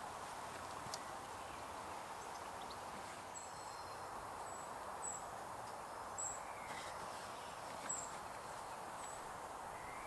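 Steady rush of running river water, with a small bird giving short, very high-pitched calls about once a second from a few seconds in, and a few faint knocks.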